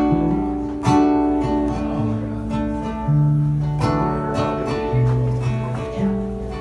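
Acoustic guitar playing: chords struck roughly once a second and left ringing over a changing bass line.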